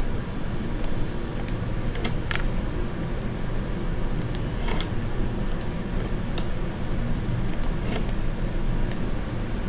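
Computer mouse and keyboard clicks, about a dozen short ones spread irregularly, over a steady low background hum.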